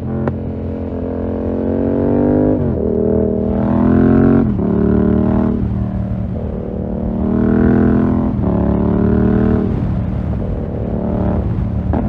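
2020 Yamaha MT-07's 689 cc parallel-twin engine through a full SC-Project 2-1 exhaust, pulling hard under acceleration. The note climbs in pitch and drops back at each upshift, several times through the gears.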